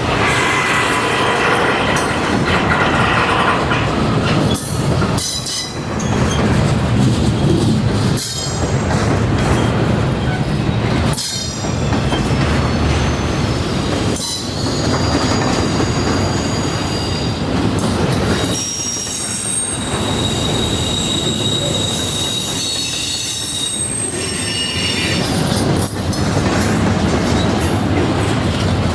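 Norfolk Southern train's cars rolling past close by, a loud steady rumble that dips briefly every few seconds as car after car goes by. Partway through, wheels squeal on the rail in several high steady tones for a few seconds.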